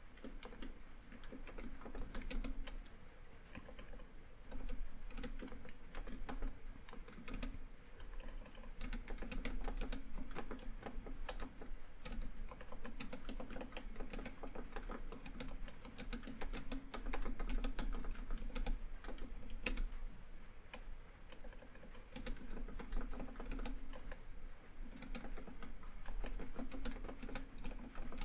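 Laptop keyboard typing in quick runs of keystrokes with brief pauses between them.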